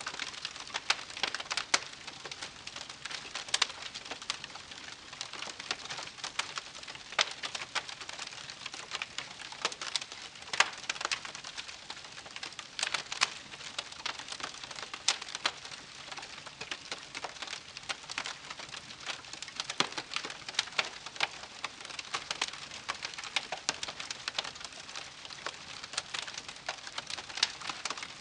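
Wood campfire crackling: irregular sharp pops and snaps, several a second, over a soft steady hiss of burning.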